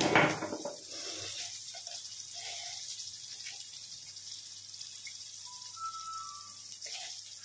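Peas and green chillies sizzling in oil in an iron kadhai, a steady high hiss, with a metal clatter against the pan at the very start. A faint short high tone sounds briefly about six seconds in.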